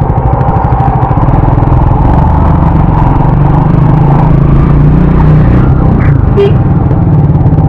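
Motorcycle engine running steadily, with a pulsing low note.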